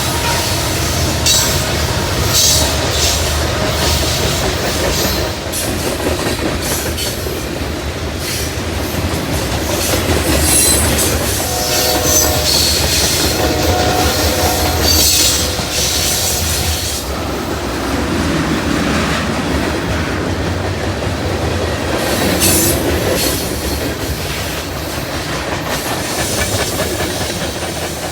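Train cars rolling past, wheels clicking over the rail joints over a steady rumble, with high wheel squeals coming every second or two.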